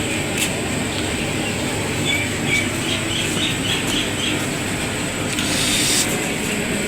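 Small birds chirping in a quick run of short calls about two seconds in, over a steady rumbling background noise, with a brief hiss shortly before the end.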